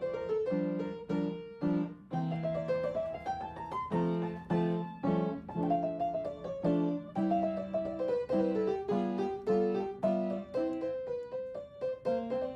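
Solo piano music: a melody stepping up and down over repeated chords.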